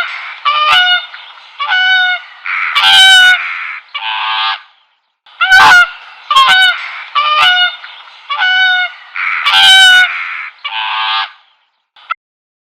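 Swans calling: a series of loud, nasal honks, several to a run. The run breaks off about five seconds in, then starts again and stops about eleven seconds in.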